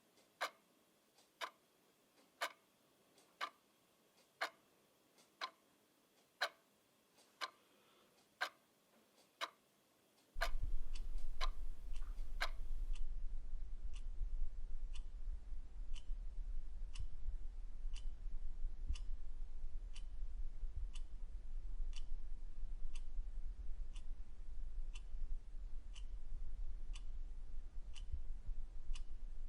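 A clock ticking steadily, about once a second. About a third of the way in, a loud, deep, steady hum starts and drowns the ticks, which keep going more faintly.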